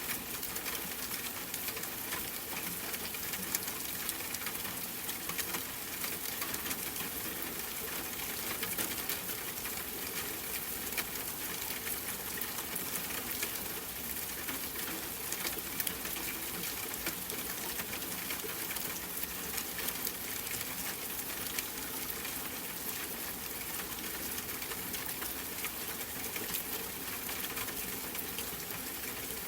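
Steady rain: a dense, even patter of drops hissing without let-up, with a faint low hum beneath.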